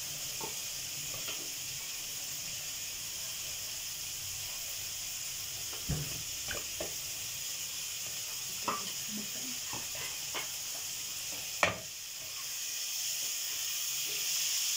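Onion-tomato masala frying in a wok over a gas flame: a steady sizzle, with a few light utensil clicks and one sharper knock a little before the end, after which the sizzle grows slightly louder.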